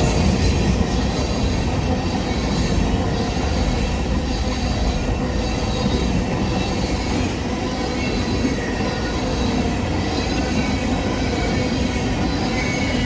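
Union Pacific freight train rolling past at a grade crossing, a steady rumble and rattle of cars on the rails with faint, intermittent high wheel squeal.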